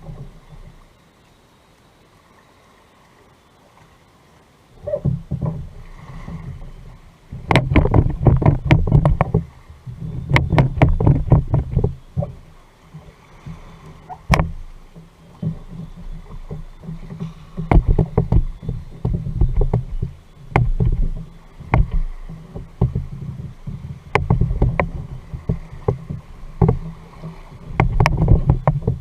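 Sit-on kayak being paddled: repeated paddle strokes through the water with sharp knocks and clicks on the hull, starting after a few quiet seconds.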